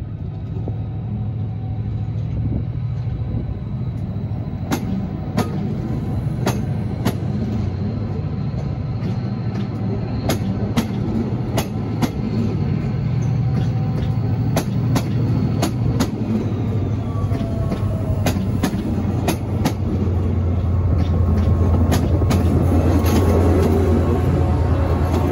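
TransPennine Express Mark 5A coaches rolling past as the train pulls away, with a steady rumble and sharp clicks from the wheels over rail joints. Near the end the Class 68 diesel-electric locomotive pushing at the rear passes, and its engine hum grows louder.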